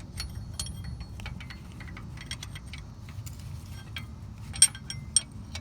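A 14 mm open-end wrench clinking against a bolt and surrounding metal as it is worked a little at a time in a cramped spot: a string of light metallic ticks, with two sharper, ringing clinks near the end.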